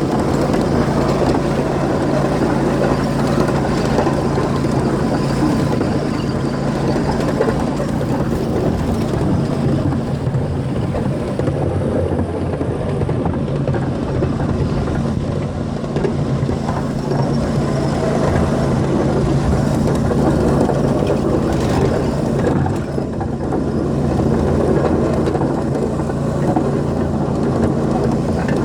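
Steady mechanical drone with a constant low hum, like a running engine, holding level throughout.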